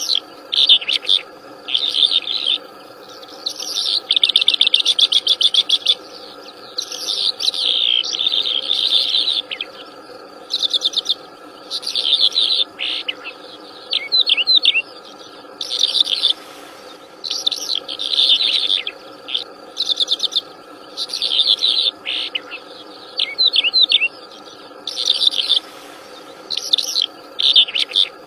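Wild songbird singing loud, varied phrases every second or two, some of them fast trills, over a steady background drone of insects.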